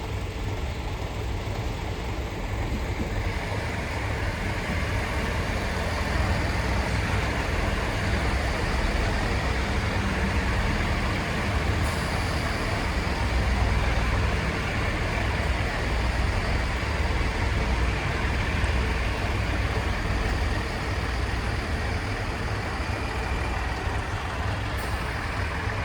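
Train running along the line, heard from on board: a steady low rumble of engine and running gear that grows a little louder a few seconds in.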